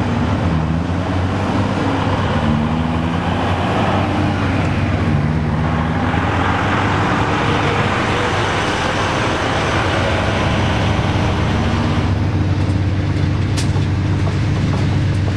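Large engine running with a steady low drone over a broad rumble, loud throughout.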